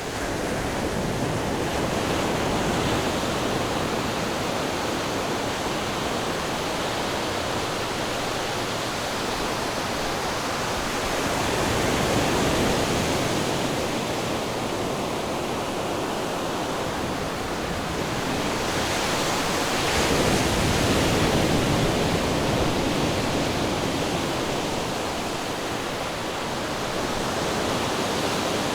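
Ocean surf: a continuous rush of breaking and washing waves, swelling slightly about twelve and twenty seconds in.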